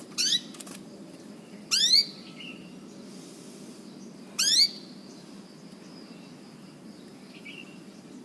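Canary giving three short, loud calls, each a quick run of rising chirps, about a second and a half and then nearly three seconds apart: an odd call rather than its melodious song.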